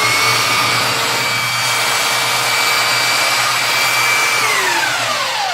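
Tacklife 3 x 18 in. electric belt sander running free with no workpiece, a steady motor whine over the rush of the belt. About four and a half seconds in it is switched off and winds down, its whine falling in pitch.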